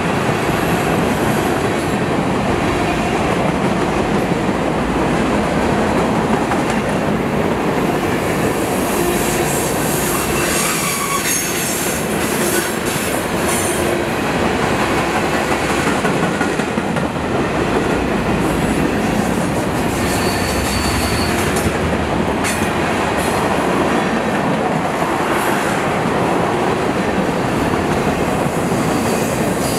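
Norfolk Southern manifest freight cars rolling past: a steady rumble and clatter of steel wheels over the rails, with brief high wheel squeals now and then.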